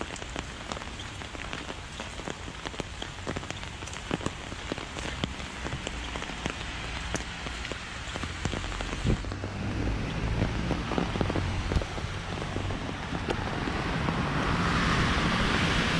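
Heavy rain falling on pavement, with many close, sharp raindrop ticks. A low rumble joins about halfway through, and the rain noise swells over the last few seconds.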